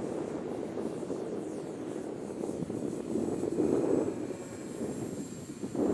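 Twin electric motors and propellers of an E-flite Twin Otter RC plane in flight: a faint thin high whine under heavy wind rumble on the microphone, the rumble swelling a little past the middle.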